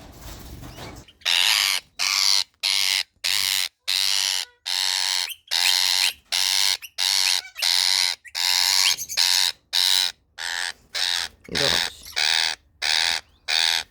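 Male Indian ring-necked parakeet screeching loudly over and over, about two harsh calls a second from about a second in, as it is caught and held.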